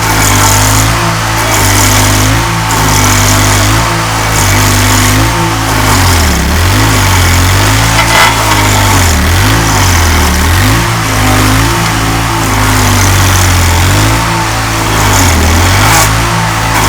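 A 27-horsepower stump grinder's engine running hard as its cutter wheel chews into a tree stump. The engine pitch dips several times as it bogs under the cutting load and then recovers, with repeated hissing bursts of grinding and flying chips.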